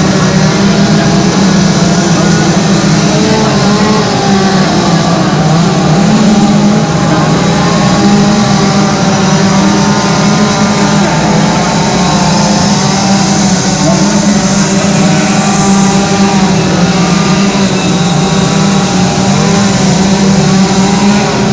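Two-stroke chainsaws running steadily at high revs, cutting into wood during quick carving.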